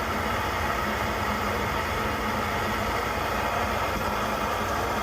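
Coleman 530 G.I. pocket stove's pressurized liquid-fuel burner running with a steady roar, warmed up and burning with a fluttering flame.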